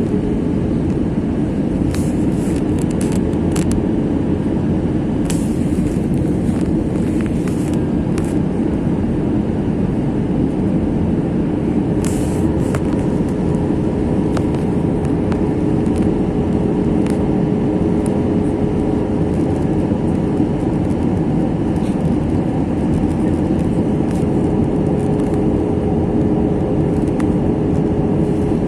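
Steady rumble of engine and airflow noise inside an Airbus A321 passenger cabin. A steady hum joins about two-thirds of the way through, and a few faint clicks come in the first half.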